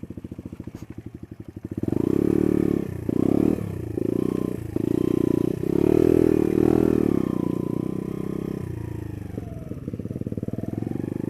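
Small single-cylinder trail motorcycle engine ticking over slowly, then given a series of short throttle bursts from about two seconds in, before settling to a steady low-speed run near the end.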